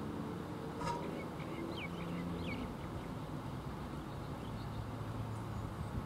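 A handful of short, high bird chirps between about one and three seconds in, with a few fainter ones later. They sit over a low steady background hum, and a single click sounds just before the chirps begin.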